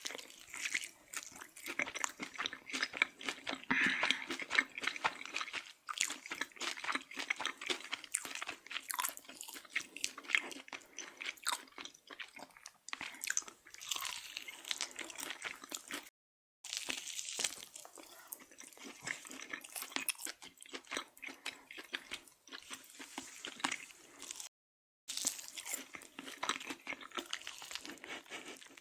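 Close-up crunchy chewing and biting of food, a dense run of sharp crackles and crunches, cutting off to dead silence twice for a moment.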